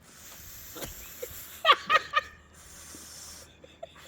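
A person trying to whistle and producing mostly breathy, hissing air with little tone, with a short voiced sound about two seconds in.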